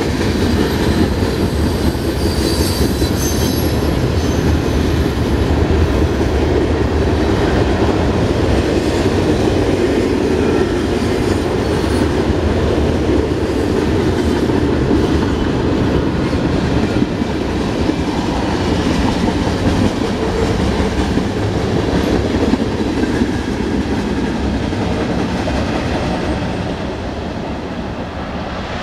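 Freight train cars rolling past, a steady rumble of wheels on rail with a brief high squeal a few seconds in. The noise falls away near the end as the train moves off.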